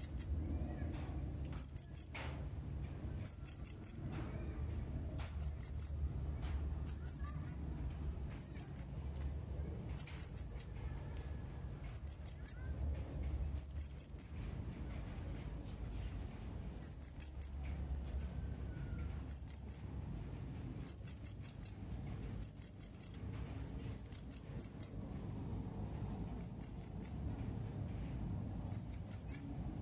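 Blue-crowned hanging parrot (serindit) calling: short, very high-pitched trilled chirps repeated evenly about every one and a half to two seconds, over a faint low hum.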